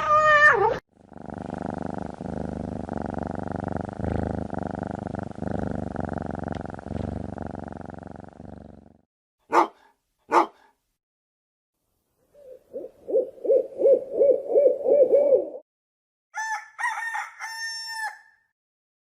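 A run of animal sound effects. The end of a cat's meow leads into a cat purring steadily for about eight seconds, then a dog barks twice. An owl hoots in a quavering run of notes, and a rooster crows near the end.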